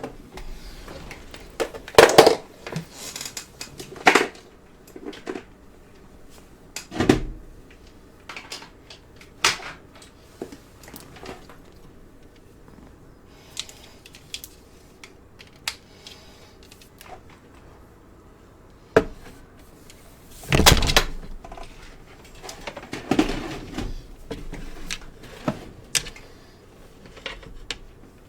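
Irregular knocks, clicks and rattles of objects being handled and set down, from a light being adjusted. The loudest knocks fall about 2, 4, 7 and 21 seconds in.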